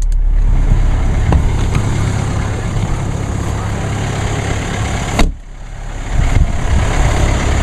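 2014 Mercedes-Benz GLK 250 BlueTec's four-cylinder turbodiesel idling steadily just after a cold start at 23°F, held at a raised fast idle because it is cold. About five seconds in there is a sharp click, and the sound briefly drops quieter before the idle returns.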